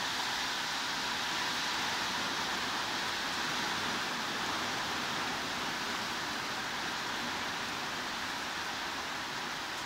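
Steady heavy rain, an even hiss with no separate drops standing out and no change in level.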